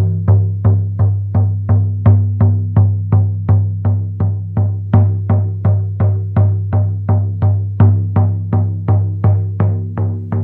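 Handmade goat-skin frame drum struck with a soft wool-headed beater in a steady beat of nearly three strokes a second. Each stroke leaves a deep tone that rings on into the next.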